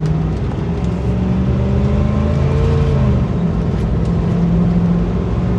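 A motor vehicle's engine running steadily, its note rising and falling slightly in the middle.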